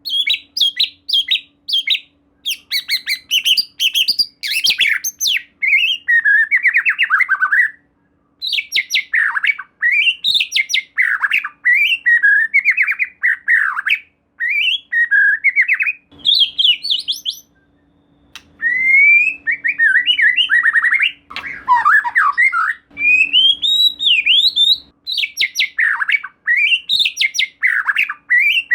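White-rumped shama singing loudly and almost without a break: a fast string of varied phrases of sweeping whistles and rapid trills, with a few short pauses.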